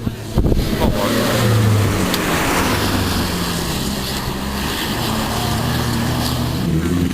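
Rally car engine running hard under load, with road and tyre noise. The pitch falls about a second in, then holds a fairly steady note.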